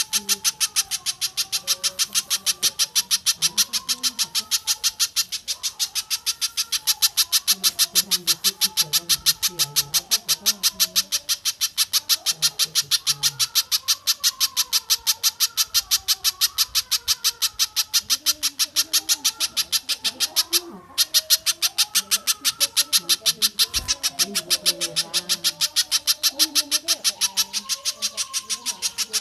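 A bird calling in a long, rapid roll of sharp high notes, about five a second, breaking off briefly about two-thirds of the way through, with fainter lower calls behind it.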